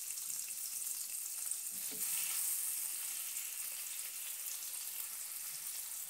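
Butter-and-olive-oil garlic marinade sizzling steadily in a hot ridged grill pan. The sizzle grows a little louder about two seconds in, as a slice of precooked pumpkin is laid into the fat.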